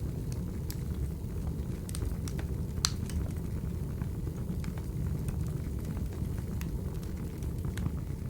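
Wood fire burning: a steady low rumble of flames with scattered sharp crackles and pops, the loudest about three seconds in.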